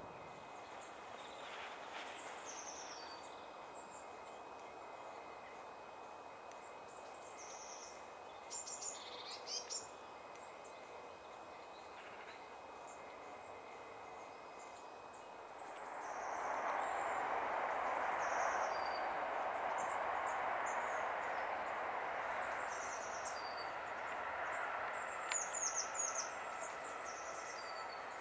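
Small birds chirping and twittering in short high calls, with a cluster a little before the tenth second and another about three quarters of the way through, over a steady background noise that grows louder a bit past halfway.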